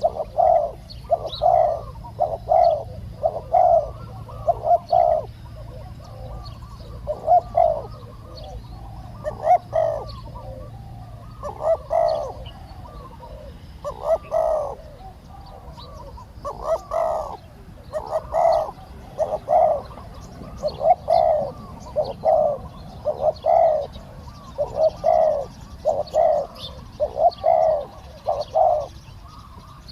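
Spotted doves cooing, a run of repeated low coo phrases every second or two.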